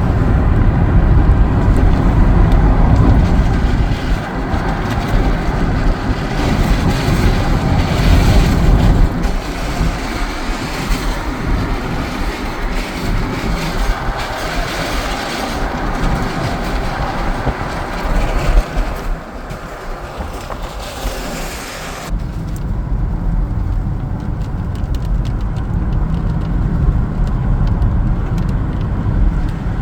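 Car driving on a rain-wet road: steady engine rumble and tyre hiss. The high hiss drops away sharply about two-thirds of the way through, leaving mostly the low rumble.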